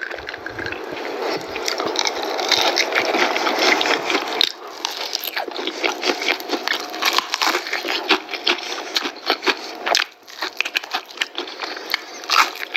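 Close-up chewing of crunchy fried chicken: dense crackling at first, then many sharp, irregular crunches.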